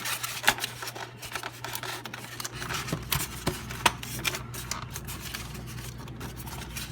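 Irregular plastic clicks, taps and scraping as a refrigerator's air damper assembly is slid and pushed into its foam housing, over a steady low hum.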